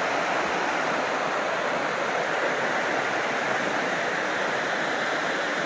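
Steady outdoor rushing noise, even and unbroken, with little bass.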